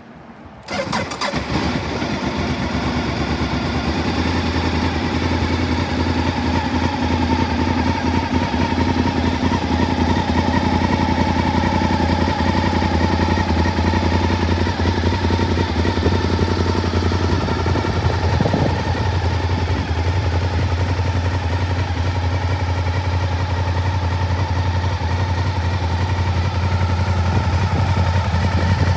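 Honda VTR1000SP-1's 90-degree V-twin, breathing through an aftermarket Akrapovič muffler, starting up about a second in and then idling steadily, gradually getting a little louder.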